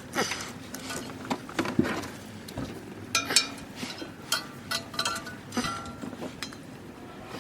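Irregular clinks and clatters of metal tools and parts being handled, some leaving a short metallic ring.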